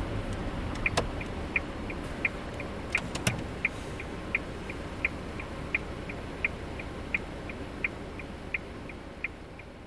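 Car's turn-signal indicator clicking in the cabin: a regular tick-tock, about one on-off cycle every 0.7 s, starting about a second in. Underneath is the car's low running and road noise, which fades toward the end.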